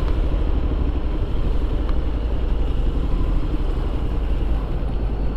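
Steady low rumble of a moving vehicle, with road and wind noise and no distinct events.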